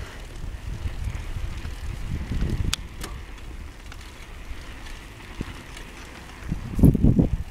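Wind rumbling on the microphone of a handheld recorder while riding a bicycle, with two sharp clicks about three seconds in and louder low rumbling bursts near the end.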